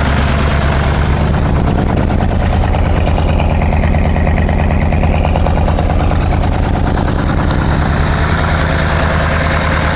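1982 Ford F-150 engine idling steadily shortly after a cold start, its first run after sitting for about three months.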